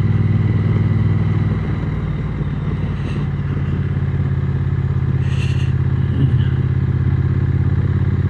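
Triumph Speed Twin 900's parallel-twin engine running at a steady low speed while the motorcycle is ridden slowly.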